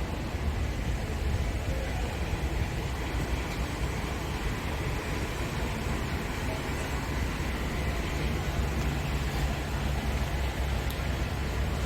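Scania G500 truck's 13-litre straight-six diesel engine running steadily, a low even drone.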